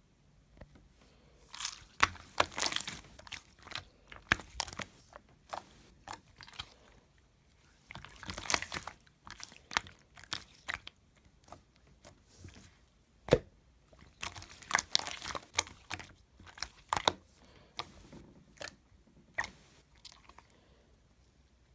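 Slime being squeezed and pressed by hand, making clusters of sharp crackling clicks and pops, in bursts a few seconds apart with short quiet gaps, and one louder single pop about two-thirds of the way through.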